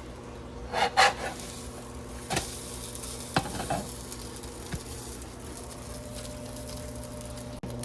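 Quesadilla frying in a pan with a light sizzle, and a utensil scraping and knocking against the pan a few times in the first four seconds. A steady low hum runs underneath.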